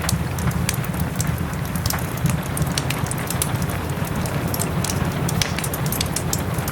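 Wood fire crackling in a fireplace, with frequent small sharp pops, over a steady hiss of soft rain.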